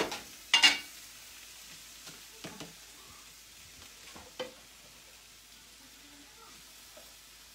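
Chicken breasts sizzling faintly as they finish cooking, with two sharp clatters near the start and a few lighter clicks of cookware being handled.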